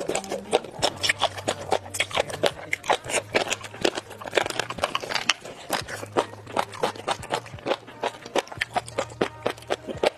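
Close-miked crunchy chewing and biting, a dense run of quick wet crackles, as in eating-sounds recordings of crisp cold dishes like tripe or jellyfish.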